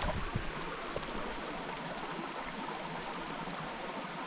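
Small mountain stream running over rocks, a steady rush of water, with a few soft low bumps right at the start.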